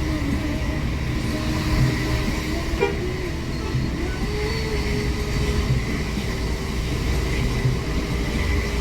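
Hino R260 bus diesel engine running under way, heard from inside the cabin: a steady low drone with road noise, its tone stepping up in pitch about four seconds in.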